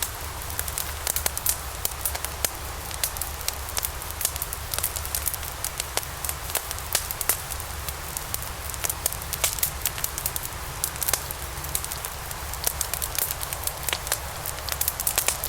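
Wood logs burning in a fireplace, crackling with frequent irregular sharp pops and snaps over a steady hiss and low rumble of the flames.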